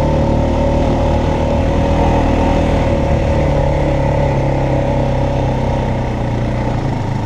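Honda Foreman Rubicon ATV's single-cylinder engine running steadily while riding, its pitch rising and falling slightly with the throttle.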